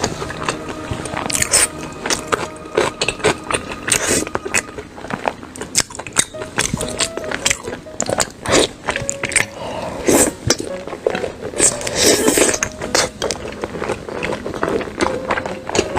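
Close-miked eating: irregular bites and chewing, full of sharp clicks, with faint background music under it.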